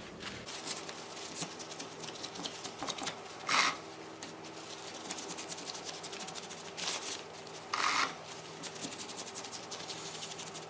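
Stihl MS290 Farm Boss saw chain being wiped with a rag and drawn around the bar by hand, with a fast run of fine clicks from the links and a few short, louder rubs.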